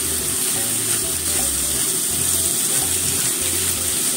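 Shimeji mushrooms and cabbage sizzling steadily in oil in a frying pan as they stir-fry.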